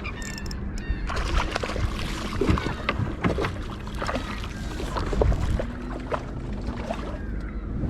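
Water sloshing against a kayak hull, with scattered small clicks and knocks from about a second in.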